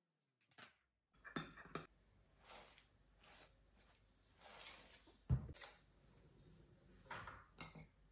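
Soft handling noises: a few short knocks and clicks with faint rustling between them, the loudest knock a little past five seconds in.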